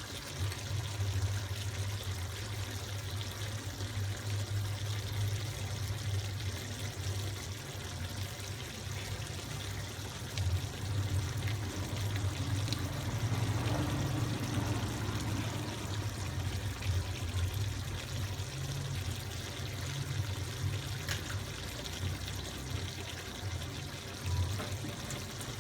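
Liquid pouring and bubbling in a pot of meat, potatoes and carrots cooking on the stove, over a steady low hum.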